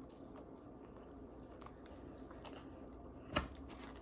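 A person chewing a mouthful of birria taco, with faint mouth sounds and one sharp click near the end.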